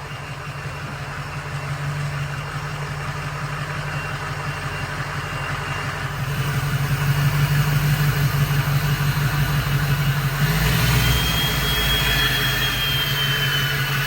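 Ford F-250's 6.0 Powerstroke diesel V8 running as the truck creeps forward at low speed, getting louder partway through. A thin high whine rises and falls near the end.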